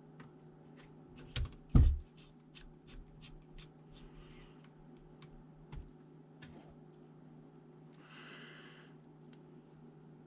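Clicks and taps from handling a ThinkPad T400 laptop, like keys or plastic parts being pressed, with one heavy knock about two seconds in and a short hiss near the end, over a steady low hum.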